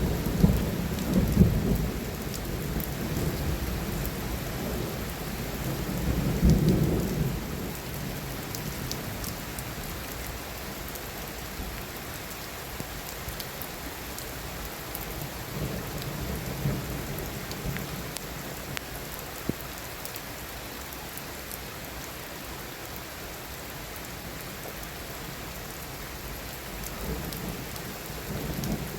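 Heavy rain falling steadily, with thunder rumbling over it. The loudest rumbles come right at the start and about six seconds in, and fainter ones follow later.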